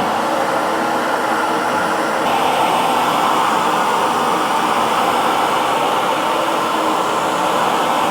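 Hair dryer blowing steadily: a constant, even rushing noise, strongest in the middle range. Its hiss turns slightly brighter about two seconds in.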